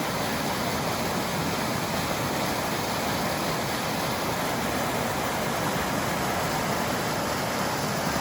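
A small waterfall spilling into a creek pool: a steady rush of falling and running water.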